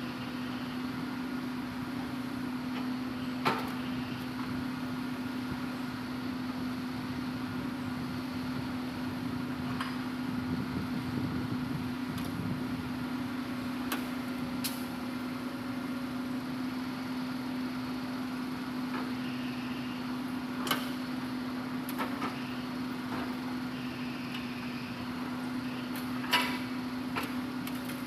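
Hitachi Zaxis 200 excavator's diesel engine running at a steady hum, with about five short sharp knocks spread through it.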